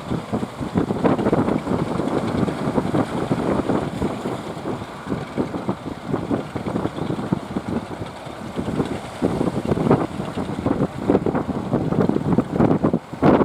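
Wind buffeting the microphone in uneven gusts, over the low noise of a fishing boat's engine.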